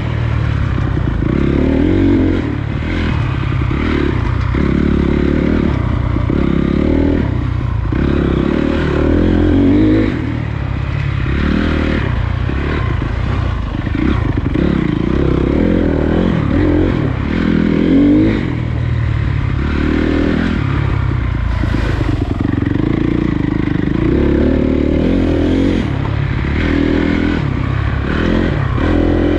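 Honda CRF250 dirt bike's single-cylinder four-stroke engine running on a trail ride, revving up and easing off every second or two as the throttle is worked.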